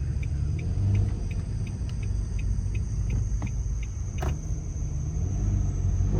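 Car exhaust rumbling low and rough at low revs, a harsh drone from an exhaust damaged by running over a deer carcass, which the owner suspects is an exhaust leak where a bone pierced the pipe. A faint fast ticking runs over it for the first few seconds, and there is a single sharp click a little after four seconds.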